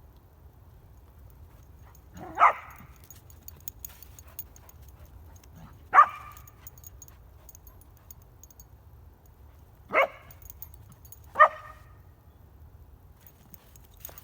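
A small dog barking four single sharp barks, spaced a few seconds apart, the last two closer together.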